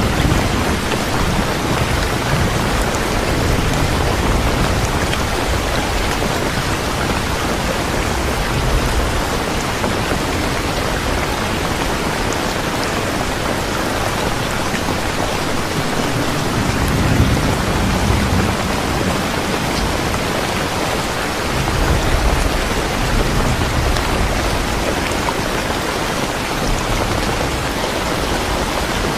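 Steady heavy rain, an even hiss of falling water. Low rolls of thunder swell up near the start, around the middle and again a few seconds later.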